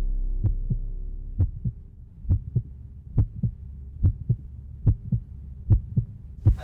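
Heartbeat sound effect: a low double thump, lub-dub, repeating a little less than once a second. A low sustained drone under it fades out in the first two seconds.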